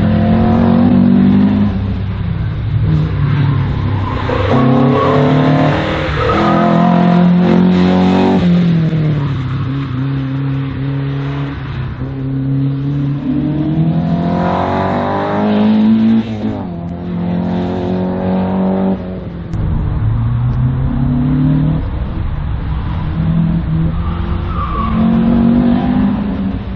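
Competition car's engine being driven hard: the pitch climbs under full throttle, drops sharply at each gear change or lift, and climbs again several times, as on an autoslalom run.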